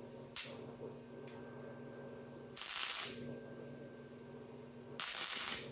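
Welding arc crackling in three short bursts of about half a second each, spot welds laid one after another, over a steady low hum.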